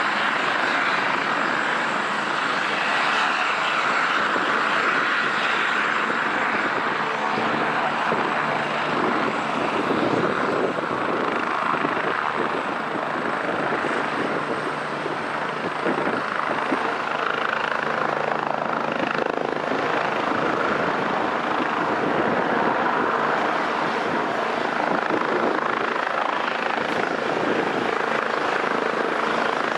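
Air ambulance helicopter running: a steady, continuous rotor and turbine noise with a thin high whine over it.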